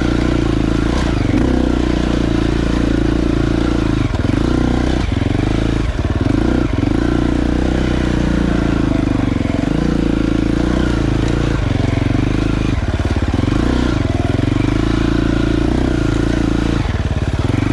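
Dirt bike engine running while under way, its note rising and falling with the throttle and briefly dipping several times as the throttle is eased off and opened again.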